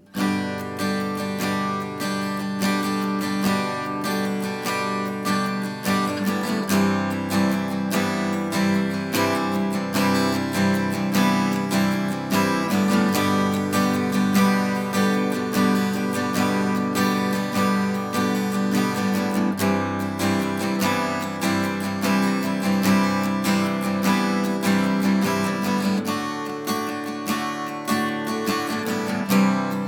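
Vintage Japanese steel-string acoustic guitar being strummed, chords played continuously; the playing starts abruptly at the very beginning.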